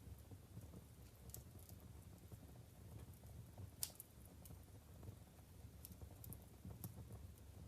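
Wood fire burning in a fireplace: logs crackling with scattered small pops, one sharper pop near the middle, over a low rumble of the flames.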